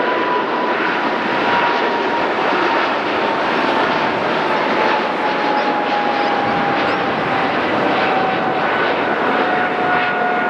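Jet airliner's engines passing: a loud, steady rush with a whine that slowly falls in pitch.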